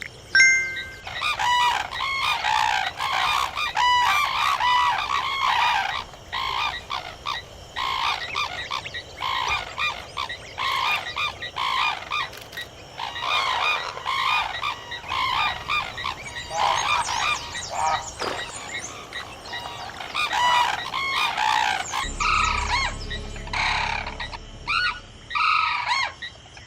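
Birds honking and calling over and over, many short arched calls overlapping. About three quarters of the way through the background changes abruptly and a low hum comes in.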